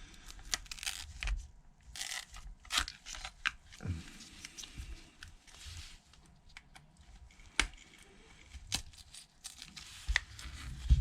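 A Jimmy pry tool working under the edge of an iPhone XS Max's glued-down screen: scraping, crackling and irregular sharp clicks as the display adhesive pulls free.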